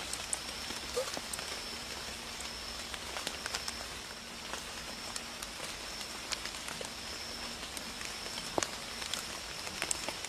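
Light drizzle falling, with scattered drops ticking irregularly on nearby surfaces over a soft steady patter. A faint steady high-pitched tone runs underneath.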